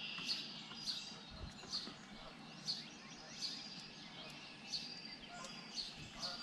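Wild birds calling from the surrounding trees: short, high chirps repeating roughly once a second over a faint outdoor background.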